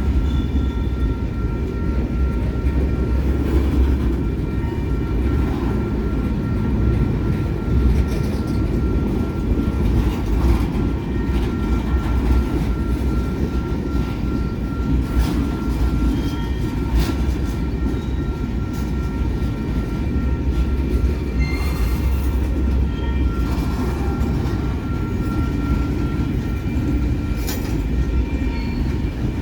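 Train rolling steadily past at close range: a continuous deep rumble with scattered clicks of wheels over the rail joints and a thin, steady squeal of wheels on the rails.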